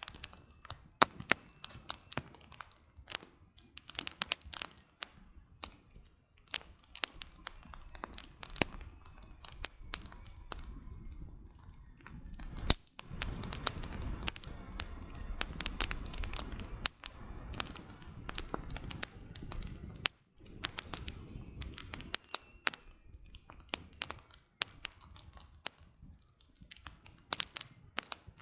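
Wood campfire burning, the logs crackling with many sharp pops and snaps at an uneven pace. For about seven seconds past the middle, a low rushing flame sound fills in beneath the crackles.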